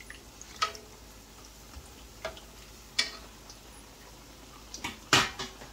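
Bara dough frying in a pot of hot oil with a faint steady sizzle, and a plastic slotted spatula knocking against the aluminium pot about five times, each knock ringing briefly, the loudest near the end.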